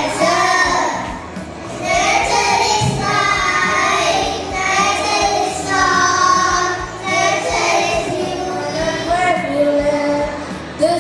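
Young voices singing a song, with long held notes that glide in pitch.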